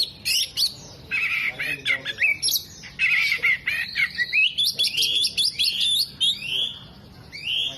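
Oriental magpie-robin (kacer) singing a fast, varied song of chirps, short trills and whistled up-and-down glides, mixing in imitated calls of other birds. The song eases off briefly near the end.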